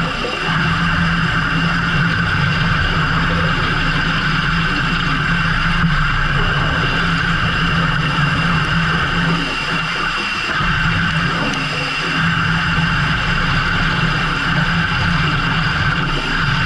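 Fishing boat engine running steadily under load, a constant low hum with a higher whine over it.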